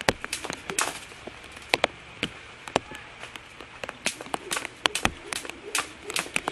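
Jump rope slapping the ground over and over in a quick, uneven run of sharp smacks.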